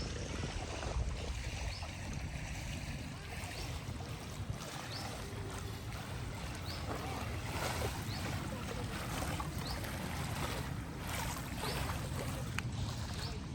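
Sea surf washing steadily onto the beach, with wind rumbling on the microphone. A few faint short chirps sound above it.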